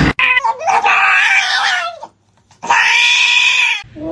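Cat meowing: two long, drawn-out meows, the second a little shorter, with a pause of under a second between them.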